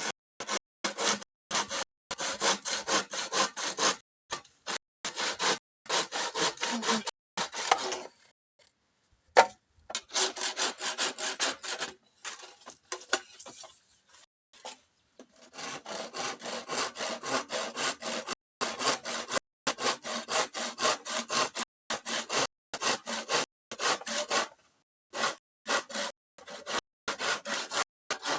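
Hand saw cutting through bamboo in quick back-and-forth strokes, in runs broken by a couple of short pauses.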